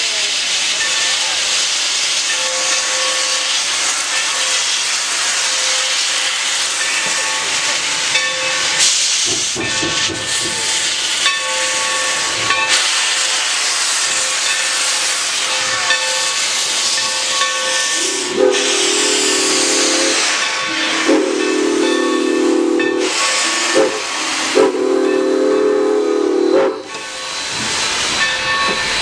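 Steam locomotive hissing steadily with scattered clicks, then its chime whistle sounds a chord in two long blasts, a short one and a long one, the grade-crossing signal.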